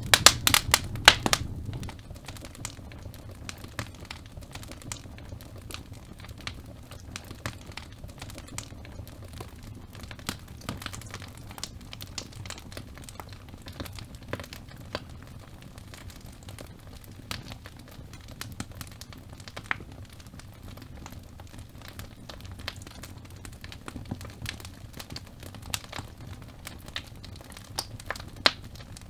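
Wood fire burning in a fireplace, crackling and popping over a low steady rumble. A cluster of loud pops comes in the first second or two, then sparser scattered crackles.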